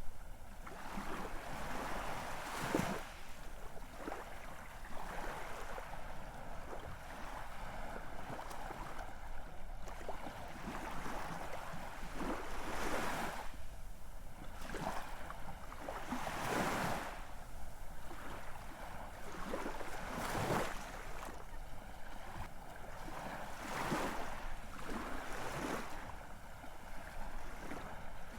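Ocean surf: waves breaking and washing in, with a louder surge every few seconds over a steady hiss of water.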